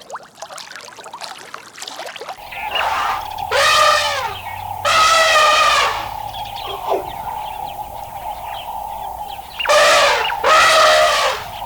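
A series of drawn-out animal cries, five in all in two groups, each with a bending pitch, over a steady tone.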